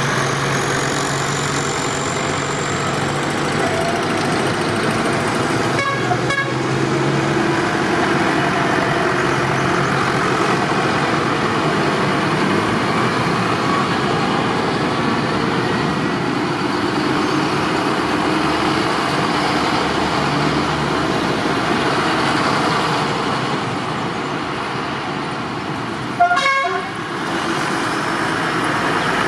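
Tractor engines running steadily. There is a brief sharp, loud sound about 26 seconds in.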